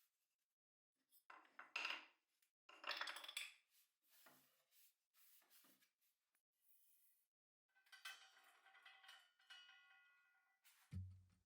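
Faint clinking and clattering of small hard objects being handled, with two louder clatters in the first few seconds and a ringing metallic rattle about eight seconds in. Music starts right at the end.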